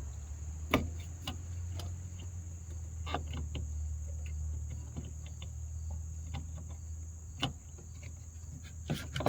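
Scattered sharp plastic clicks and taps as the wiring harness plug is pushed back onto an LED headlight bulb and seated, over a steady high chirring and a low hum.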